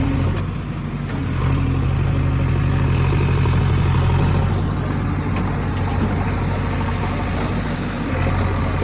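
Heavy diesel engine of a backhoe or farm tractor running steadily with a low, even note, getting louder about a second and a half in and easing slightly near the end.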